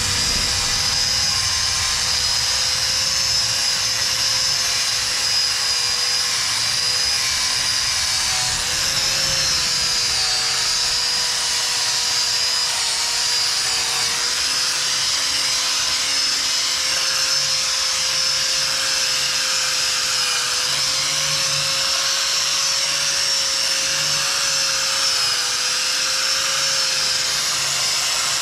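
A power tool's motor running steadily with a whine and a hiss, its pitch wavering slightly now and then as if under load.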